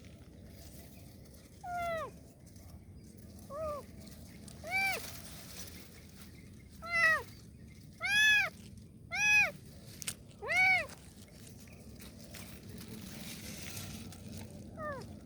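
A kitten meowing, crying for help: about eight short calls that each rise and fall in pitch, spaced a second or more apart, loudest in the middle of the run.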